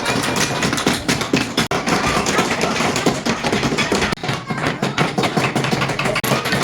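Several hammers tapping nails into wood, many quick, irregular taps overlapping.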